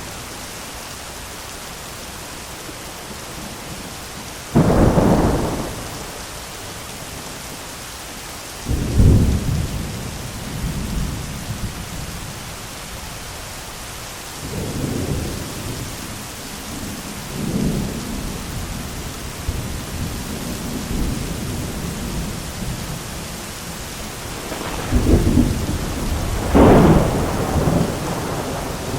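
Steady heavy rain with thunder: a sharp crack about four seconds in, another near nine seconds followed by rumbling, smaller rolls in the middle, and two loud claps close together near the end.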